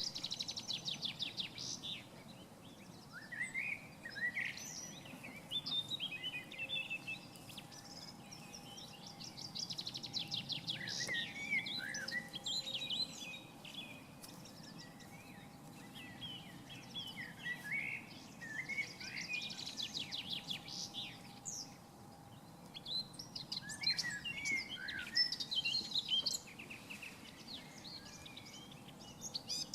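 Outdoor birdsong: a rapid high trill comes back about every ten seconds, with short twittering and chirping notes between the trills.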